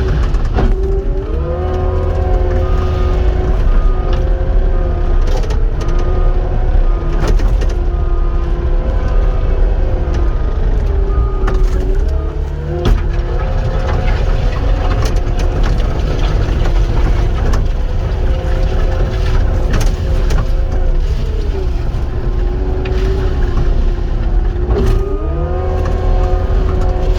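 Cat 259 compact track loader's diesel engine revving up under work and dropping back several times. During the high-rev stretches a backup alarm beeps steadily, and a few knocks are heard.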